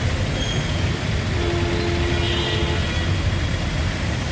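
Road traffic: a steady low engine rumble of vehicles moving along the street, with a short higher tone over it about two seconds in.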